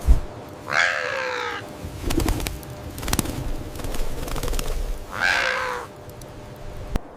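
Two drawn-out animal calls, each falling in pitch, about four seconds apart, over a low rumble, with a thud at the start and a few knocks between the calls.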